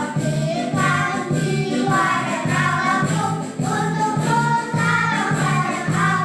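Kindergarten children's choir singing together over musical accompaniment with a steady beat.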